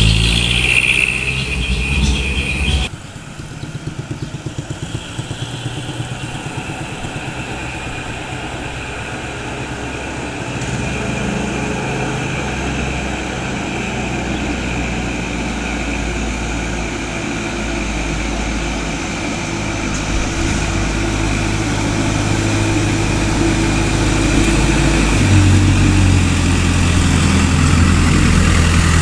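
Hino Dutro light truck's diesel engine running, with an abrupt drop in loudness about three seconds in, after which the engine builds steadily louder and grows noticeably louder and deeper near the end.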